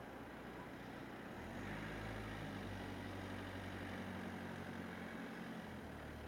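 Car engine running at low revs, a steady low hum that swells about a second and a half in and eases off near the end.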